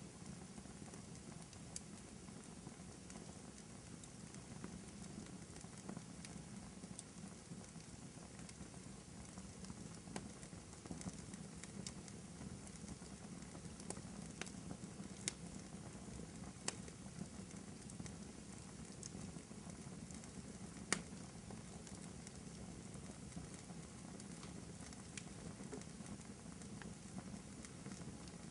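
Fireplace crackling softly: a steady low rush of burning wood with scattered sharp pops and snaps every few seconds, the sharpest about two thirds of the way through.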